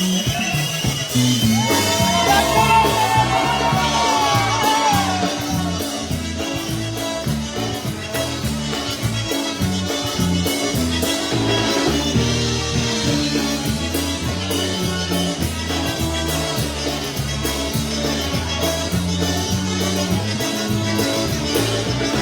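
Live polka band playing a tune with a steady bass beat and a melody line.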